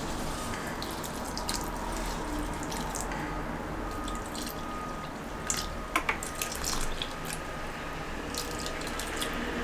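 Water running and dripping, with scattered light clicks and taps; a small cluster of sharper taps comes a little past the middle.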